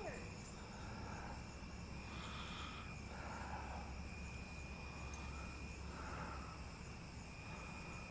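Insects trilling steadily and faintly in a single high tone, with a softer sound repeating about every second and a half behind it.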